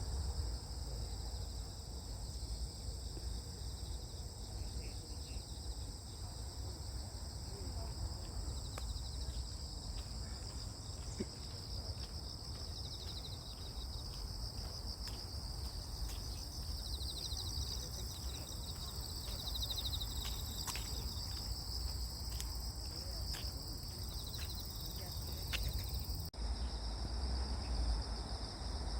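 Grass insects, crickets among them, chirping in a steady chorus of several high-pitched trills over a low rumble, with a few faint clicks. Near the end the highest trill drops out.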